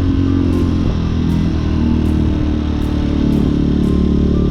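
Hawk 250 dual-sport motorcycle's single-cylinder engine running steadily while riding, its pitch shifting slightly a couple of times.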